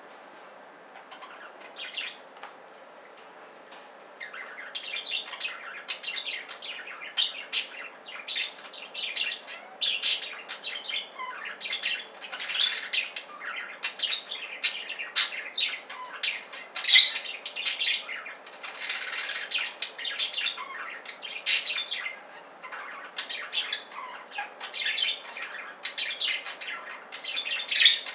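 Budgies chattering: rapid, high chirps and warbling, sparse at first and then nearly continuous from about four seconds in.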